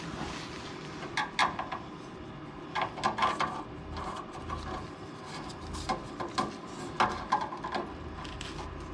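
Irregular metallic clicks and clacks of an exhaust clamp's hardware being handled, in small clusters over a low steady background.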